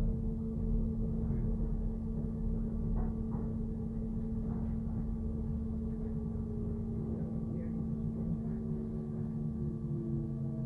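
Docklands Light Railway train heard on board: a steady electrical hum and whine of several held tones over a low rumble, with one tone gliding slowly down in pitch in the second half.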